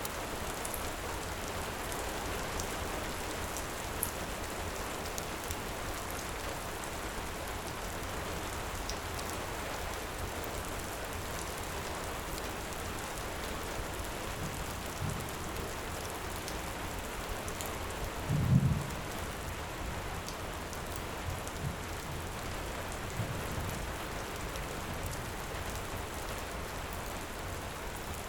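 Heavy rain falling steadily, with a few faint crackles of a wood fire and several short low rumbles, the loudest about two-thirds of the way through.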